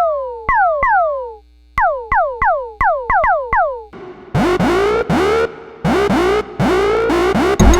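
Behringer Syncussion SY-1 analog drum synthesizer playing a rhythmic run of electronic drum hits, each a sharp attack with a steeply falling pitch sweep, the classic syndrum "pew". About four seconds in the hits turn noisier and longer, and near the end a deep bass hit comes in.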